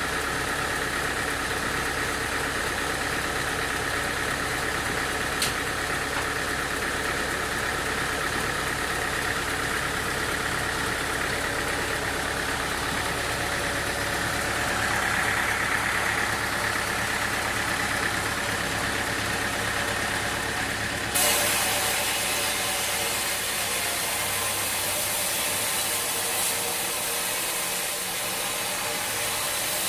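A sawmill's engine running steadily. About two-thirds of the way through, the sound changes suddenly and a high hiss joins it.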